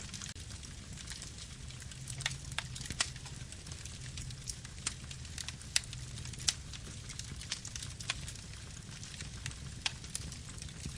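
Wood campfire crackling: irregular sharp pops and snaps, a dozen or more, over a low steady rumble.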